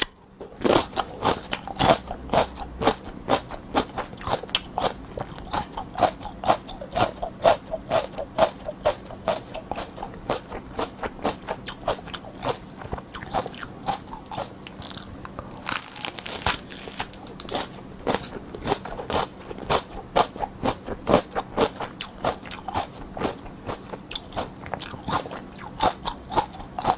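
Close-miked crunching and chewing of raw mini sweet peppers: crisp, juicy crunches several times a second, with a louder fresh bite about halfway through.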